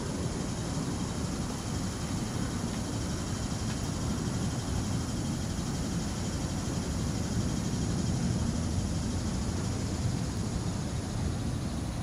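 Sunrail commuter train running at speed, heard from inside the coach: a steady rumble of wheels on track and car noise.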